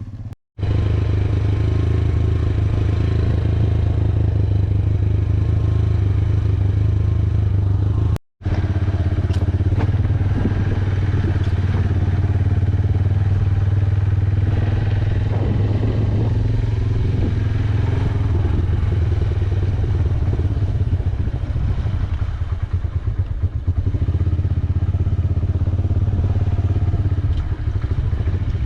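Single-cylinder Yamaha YBR125G motorcycle engine running steadily under way, with scattered rattles and knocks from riding a rough road. The sound cuts out to silence briefly twice, about half a second in and about 8 seconds in.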